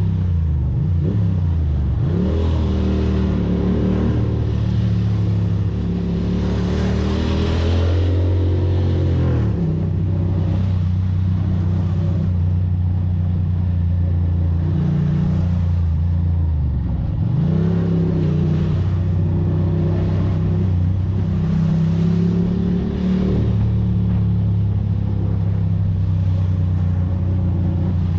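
Ducati Monster's V-twin engine running under way, its pitch dropping and climbing again with gear changes about 2, 9 and 17 seconds in.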